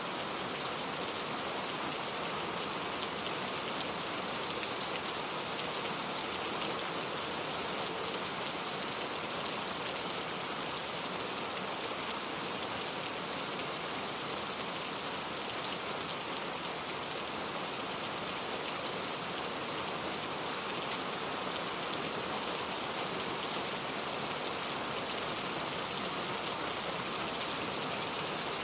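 Steady rainfall with dense pattering drops and a few faint individual drop ticks.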